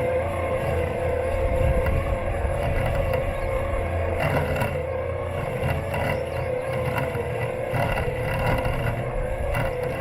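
Robotic lawn mower's electric motors running, heard from right on the mower body: a steady whine that wavers slightly in pitch over a low rumble, with a few brief crackles about four seconds in.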